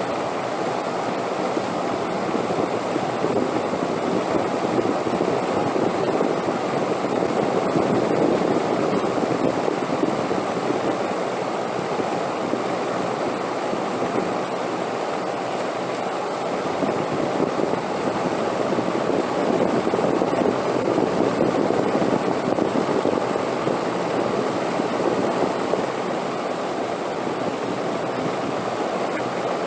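Wind rushing steadily, swelling into stronger gusts twice and easing back between them.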